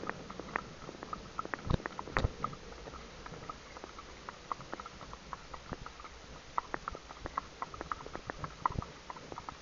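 Irregular patter of raindrops hitting close to the microphone: scattered sharp ticks at uneven intervals, some louder, with a cluster of louder hits about two seconds in.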